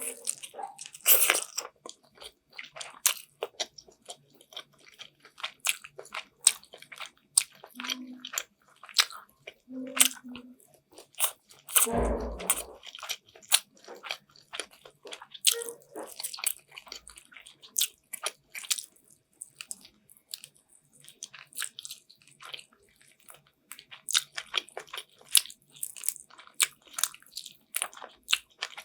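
Close-miked chewing and biting of chicken afritada, a steady stream of short wet mouth clicks and crunches. A heavier low thump comes about twelve seconds in, and a few brief low hums are scattered through.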